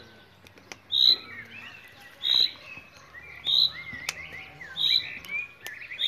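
A loud, high chirp repeats evenly, about once every 1.3 seconds, with quieter warbling bird chirps in between.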